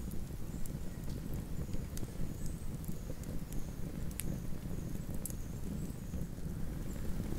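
Wood campfire burning: irregular sharp crackles and pops from the burning wood over a steady low rumble.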